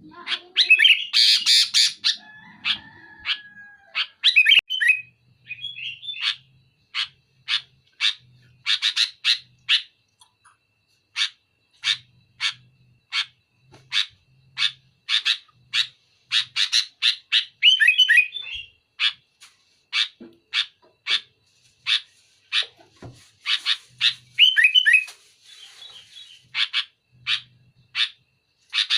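Sooty-headed bulbul (kutilang) singing: a long series of sharp, loud notes at about two a second, broken by a few quicker, fuller bursts of song.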